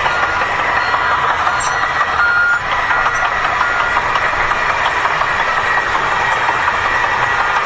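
Heavy vehicle running steadily, with a series of short high beeps over the first three and a half seconds.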